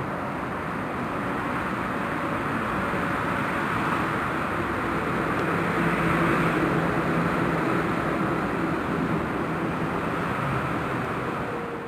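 Passenger train hauled by an EU07 electric locomotive running away along the track, a steady noise of wheels on rails that swells slightly midway.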